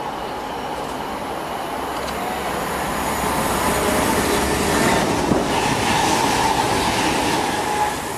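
CrossCountry Class 221 Voyager diesel multiple unit approaching and running through the station at speed. Its engine and wheel noise builds over the first few seconds and is loudest as the train passes, in the second half.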